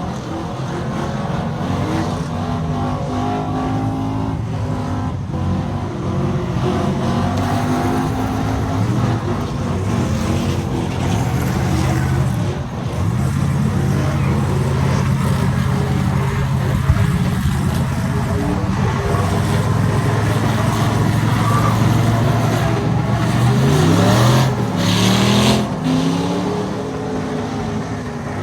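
Truck engines running, steady for long stretches, then revving up and down about 23 to 25 seconds in.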